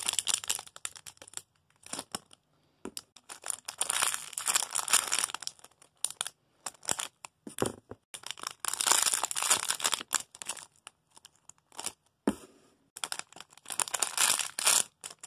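Rustling and crinkling in bursts of a second or two, with a few sharp clicks between, as squishy toys are handled and moved off a bed.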